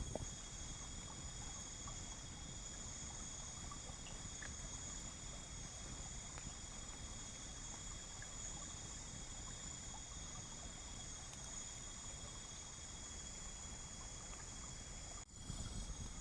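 Crickets and other night insects trilling in a steady, unbroken high-pitched chorus over a faint low rumble.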